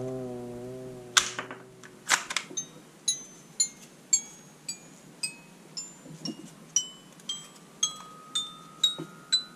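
A held, wavering tone fading out, then a string of bright chime-like notes at changing pitches, about two a second, each with a sharp click at its start.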